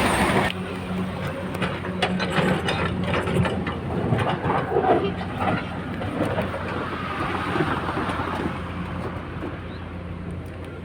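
Heavy diesel engine running steadily, with a run of irregular clattering knocks through the first half, typical of stone being dumped from an excavator bucket into a steel tipper body. A louder noise cuts off abruptly about half a second in.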